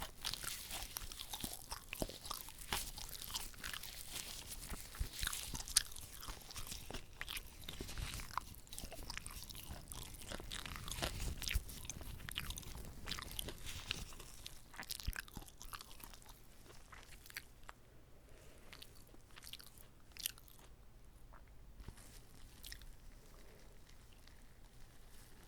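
Close-miked biting and chewing of a whole uncut gimbap (Korean seaweed-wrapped rice roll), with crunches and wet mouth clicks. The sounds come thick and fast at first, then thin out to sparse, quieter clicks over the last third.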